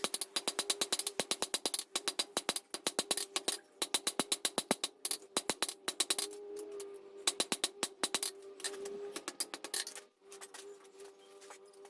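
Rapid hammer blows on hot steel over an anvil, about five or six a second in runs with short pauses, with a ringing tone underneath, as a tong rein is drawn out.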